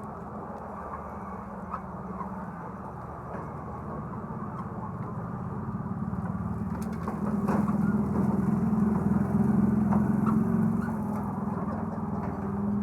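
An engine hums steadily and grows louder about halfway through, staying loud for a few seconds before easing slightly.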